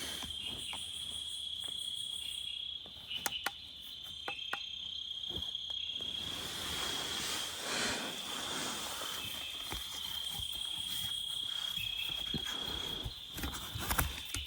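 A steady high-pitched insect chorus trilling without a break, with a few sharp clicks or knocks about three to five seconds in and again near the end.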